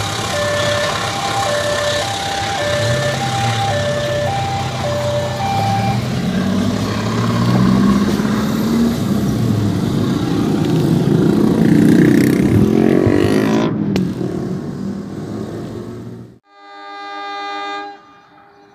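Railway level-crossing warning alarm alternating between two tones, about one every half second, over a vehicle's engine rumble that swells as a train is followed. After a sudden break, a diesel locomotive's horn sounds for about a second and a half.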